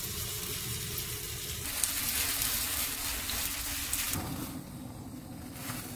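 Corn fritter batter sizzling in hot oil in a frying pan as it is dropped in and spread with a spoon. The sizzle grows louder a couple of seconds in and eases after about four seconds.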